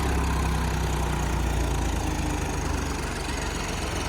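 John Deere tractor's diesel engine running steadily, its low hum easing a little about halfway through.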